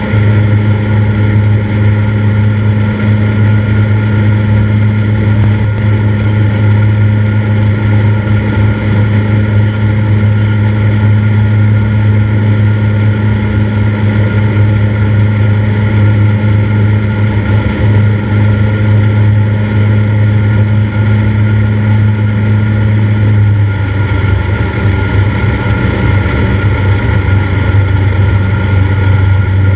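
Cessna 172's four-cylinder piston engine and propeller droning steadily in flight. About three-quarters through, the tone changes and loosens for a few seconds, then settles again near the end.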